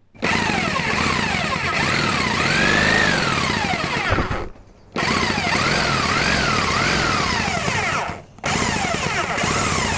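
A power tool running under load, its pitch rising and falling again and again, heard in three stretches broken by two short cut-outs; fitting the cutting of vermiculite board into replacement firebox panels.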